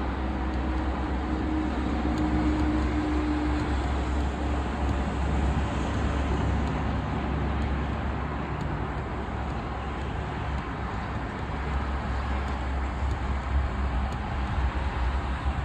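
Jet airliner's engines at departure: a steady roar with a strong low rumble. A faint hum fades out in the first few seconds.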